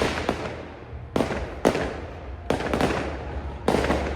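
Aerial fireworks bursting: a string of sharp bangs, roughly one a second, each echoing away before the next.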